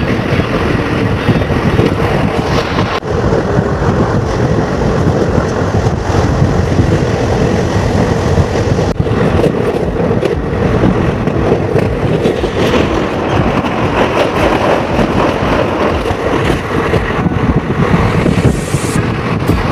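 Steady running noise of a moving passenger train, with a few brief knocks.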